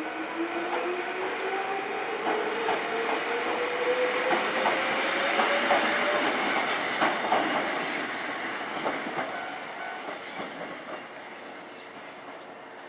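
Kishigawa Line electric train passing over a level crossing. Its motor whine rises steadily in pitch for the first six seconds as it picks up speed, and the wheels click over the rail joints. The sound then fades as it moves away.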